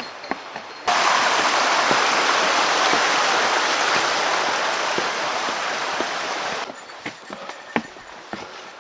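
Rushing water of a mountain stream or waterfall, loud and steady, which starts abruptly about a second in and stops just as abruptly about two seconds before the end. Before and after it come light, irregular footsteps.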